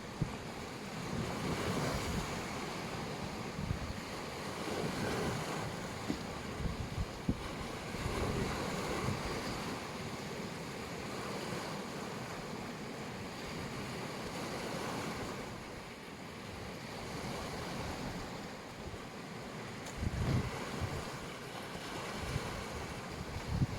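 Sea waves washing onto the shore in slow swells. Wind gusts on the microphone in low rumbles, strongest about twenty seconds in.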